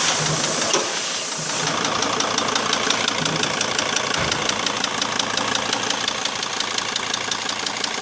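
Mercedes Sprinter 2.7 CDI five-cylinder diesel running with a fast, even metallic knock from one cylinder. The piston had seized in its liner from a brief overheat and deformed, and now knocks. A hiss is heard for the first second or two.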